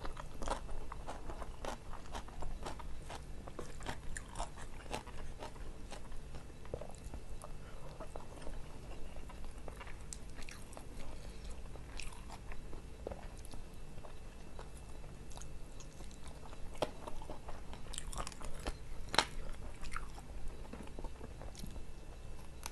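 Close-miked chewing and biting of a person eating grilled chicken and rice by hand, with many irregular wet mouth clicks and smacks; a cluster of louder clicks comes near the end.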